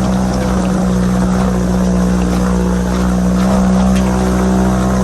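1985 Toyota Hilux pickup's engine running at steady revs while the truck is driven.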